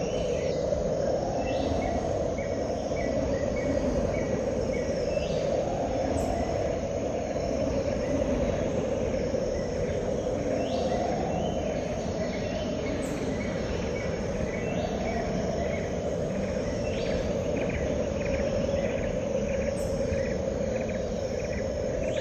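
Crickets chirping in quick regular trains, with occasional higher chirps, over a steady droning hum that slowly swells and fades.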